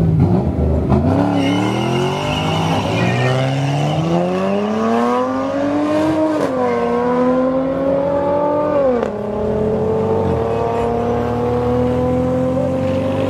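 A car accelerating hard down a drag strip, its engine note climbing steeply through the gears with two sharp upshifts, about six and about nine seconds in, then holding a steady, slowly rising note as it pulls away.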